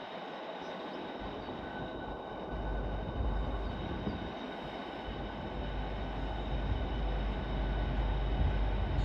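Southeastern Class 395 Javelin electric train pulling in, its low rumble growing louder from about two and a half seconds in, with a faint steady whine above it.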